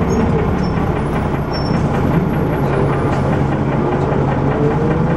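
Dennis Arrow double-decker bus engine running steadily, with a faint whine rising in pitch in the second half.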